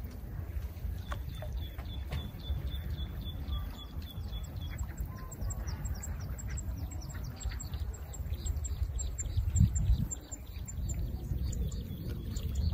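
Small birds calling: a quick, evenly repeated high chirping for a few seconds, then a higher, faster run of notes, over a low rumble. There is a dull thump near the end.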